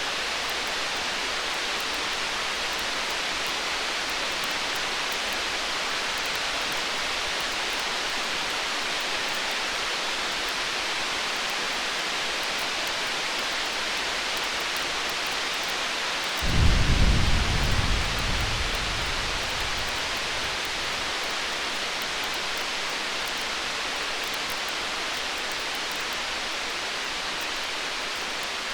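Steady rain-like hiss, with one roll of distant thunder about halfway through: a low rumble that comes in suddenly and fades away over about three seconds.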